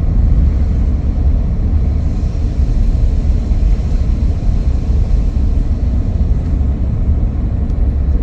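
Car driving along at steady speed: an even low road and engine rumble, as heard from inside the vehicle.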